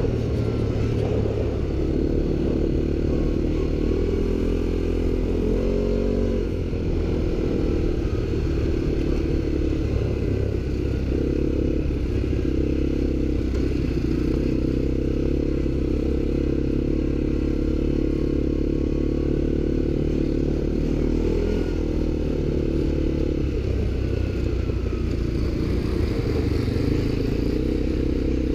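ATV engine running steadily under throttle, its pitch shifting up and down a few times, with some clatter and scraping from the machine.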